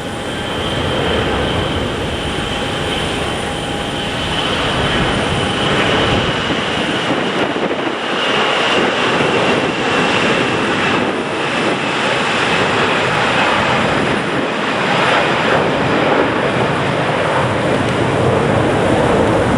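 Airbus A340-300's four CFM56 turbofan jet engines at takeoff power: a steady roar that grows louder, with a fan whine that slowly falls in pitch.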